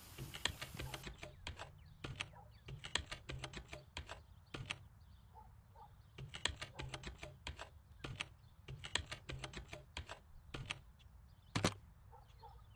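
Mobile phone key clicks, tapped in quick irregular runs of several presses, as a number or message is keyed in.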